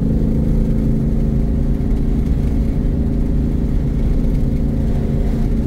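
Ford Mustang Shelby GT500's supercharged V8 cruising at highway speed, heard from inside the cabin: a steady engine drone over low road rumble.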